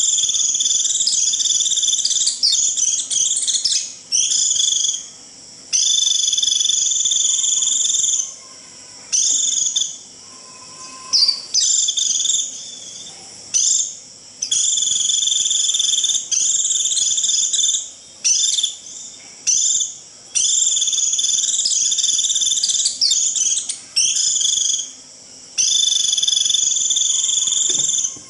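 White-eye (vành khuyên) giving its shrill, buzzy 'rít' call over and over, in high-pitched phrases of one to two seconds with short breaks between them. This is the flock-calling call that draws other white-eyes in.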